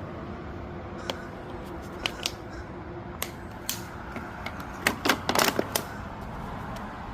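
Scattered sharp clicks and clinks of hand tools and engine parts being handled, with a quick run of louder clacks and scrapes about five seconds in, over a steady low hum.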